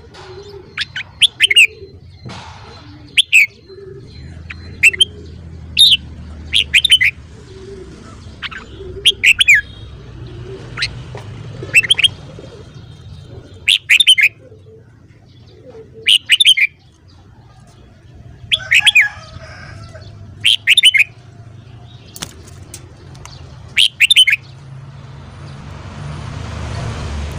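Red-whiskered bulbul calling: short, sharp, falling notes repeated every second or two, over a low background rumble.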